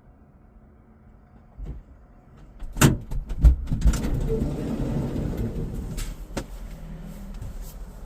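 Van door opened with a soft thump and then two loud clunks of the latch and door, followed by a steady rushing noise that slowly fades.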